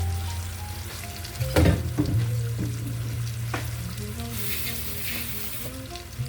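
Chicken frying in a pan with garlic butter sauce, with several sharp utensil knocks on the pan between about one and a half and three and a half seconds in, and a louder burst of sizzling about four and a half seconds in.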